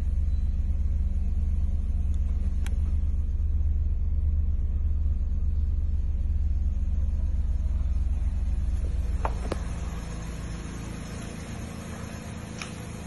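Mazda car's engine idling, a steady low rumble heard from inside the cabin. A couple of sharp clicks come about nine seconds in, and after that the rumble is quieter.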